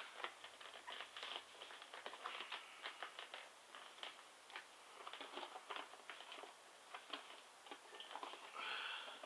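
Hands handling a plastic model horse and its packaging: a quick, irregular run of light clicks and taps with soft rustling, and a longer rustle near the end.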